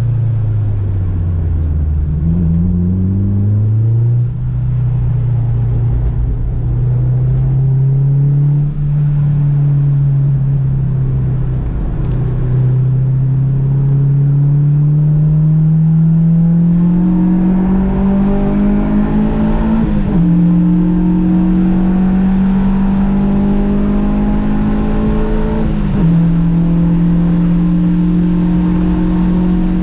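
Honda Civic engine under load on a race track. The revs fall at the start under braking, then climb slowly and steadily, with two upshifts: one about two-thirds of the way through and one near the end.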